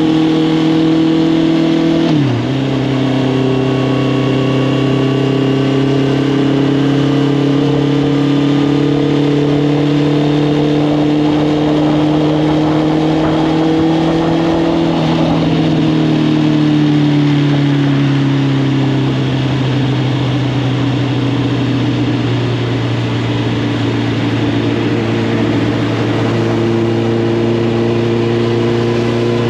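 Honda CB650R inline-four engine running through an Arrow Thunder full exhaust system while riding. The revs drop sharply about two seconds in, climb slowly and steadily, ease off after about fifteen seconds, then settle to an even cruise.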